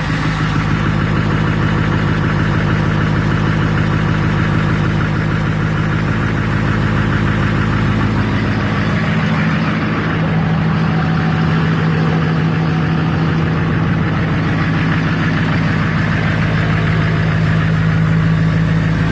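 Diesel pickup truck engine idling steadily through an exhaust with its particulate filters gutted and the muffler still in place. Its pitch steps up slightly about ten seconds in.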